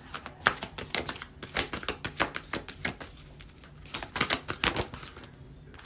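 A deck of oracle cards being shuffled and handled by hand: a quick, irregular run of crisp card clicks and slaps that stops about five seconds in.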